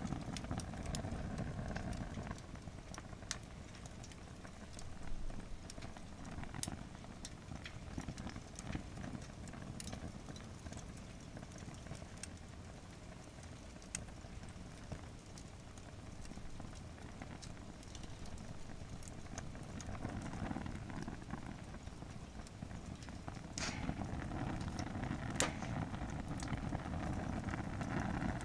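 Wood fire in a campfire fire pit, packed with more firewood than it is meant to hold and burning hard. It crackles with sharp, irregular pops and snaps over a steady low rush, and the pops are strongest about a third of the way in and again near the end.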